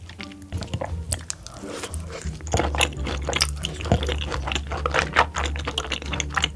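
Close-miked chewing of a large mouthful of sauce-covered meat, a dense run of quick clicks and crunches from the mouth.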